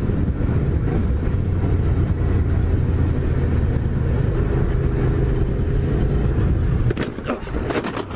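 Steady low rumble of a car driving, as picked up by a dash camera. About seven seconds in it drops off, and a few sharp knocks follow near the end.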